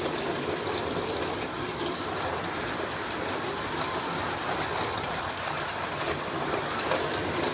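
Carrera Digital 132 slot cars running on the track: a steady whirring and rolling noise with faint scattered clicks.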